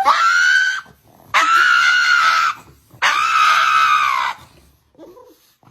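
An animal screaming: three long, high-pitched screams, each lasting about a second, with short gaps between them.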